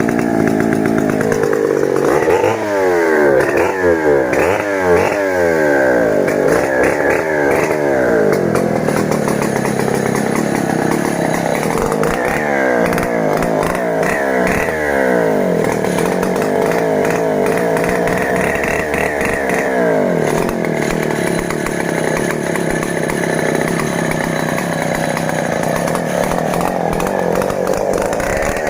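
Stihl 070 two-stroke chainsaw cutting a sengon log. Its engine pitch rises and falls again and again through the first half, then holds more steadily.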